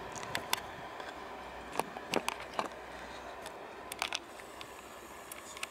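Heritage diesel multiple unit running faintly as it draws away, overlaid by a dozen or so irregular sharp clicks.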